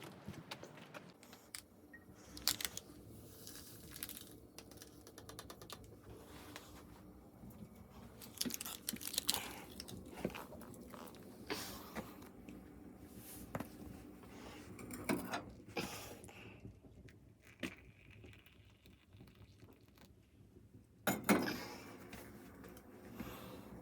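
Objects being handled at close range: scattered clicks, knocks and crinkling rustles at irregular intervals, with the loudest knock near the end.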